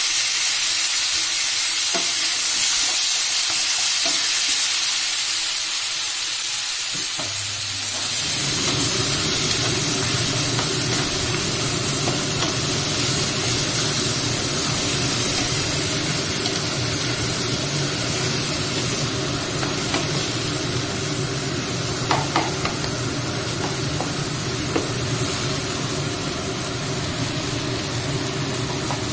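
Mashed roasted brinjal with peas and tomatoes frying in a kadai: a steady sizzle, with a spatula stirring and a few sharp taps against the pan near the end. A low steady hum comes in about eight seconds in.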